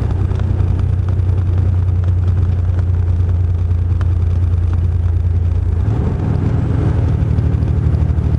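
Truck engine running steadily as the truck drives, a loud low drone; about six seconds in the engine note changes, as with a gear change.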